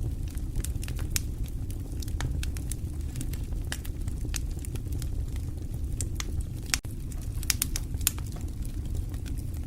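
Wood fire crackling in a fireplace: irregular sharp pops and snaps over a steady low rumble of the flames, with a few louder pops about three-quarters of the way through.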